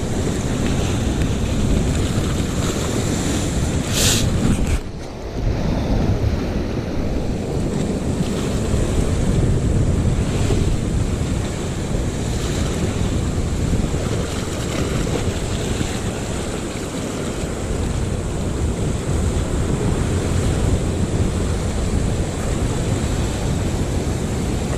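Wind rumbling on the microphone over the steady wash of ocean surf, with a brief click about four seconds in.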